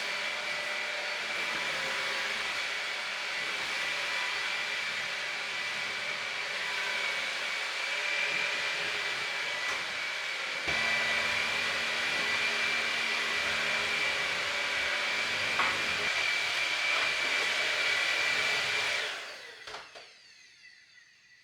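A household appliance's electric motor running steadily with a high whine, then switched off about 19 seconds in and winding down to quiet.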